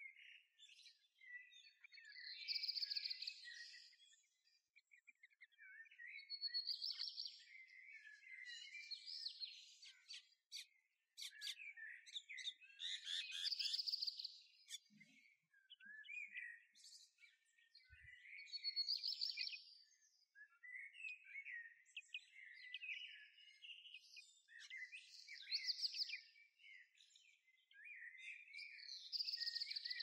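Songbirds singing: a clear song phrase repeats about every four to six seconds, with softer twittering and chips in between.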